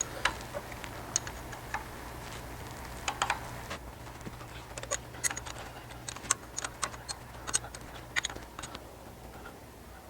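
Scattered sharp metallic clicks and clinks, some single and some in quick little clusters, of a wrench working the 9/16 bolts that hold the carburetor on a Ford 8N tractor engine.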